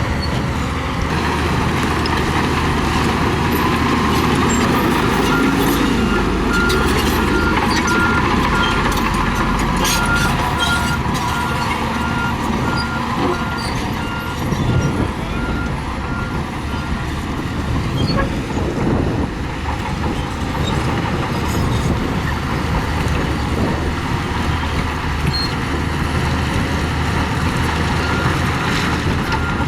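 Diesel engines of heavy earthmoving machinery running steadily, with a reversing alarm beeping from about six seconds in to about seventeen seconds, and again near the end. Occasional clanks in the first half.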